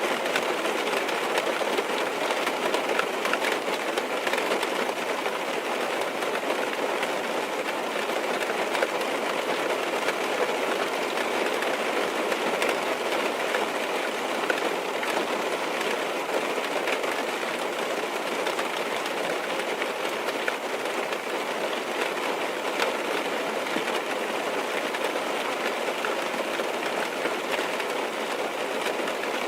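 Steady rain on a car's roof and windows, heard from inside the car: a dense even patter with scattered sharper drop ticks.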